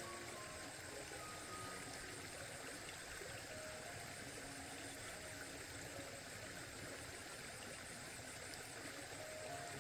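Steady rush of running water, with a few faint, sparse notes of background music.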